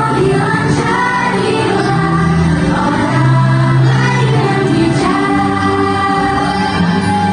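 A group of students singing a pop song together in chorus, with musical accompaniment.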